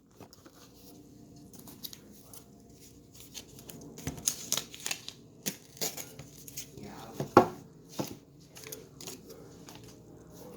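Cardboard and paper packaging being handled and torn open, with rustling, tearing and small clicks, and a sharper snap or knock about seven seconds in.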